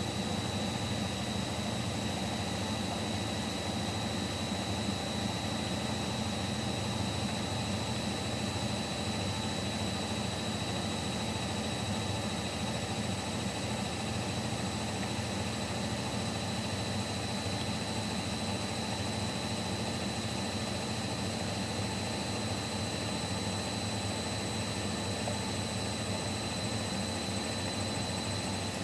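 Siemens Siwamat Plus 574 washing machine in its final spin, set to 800 rpm: a steady low drum rumble with a high motor whine that creeps slightly upward in pitch.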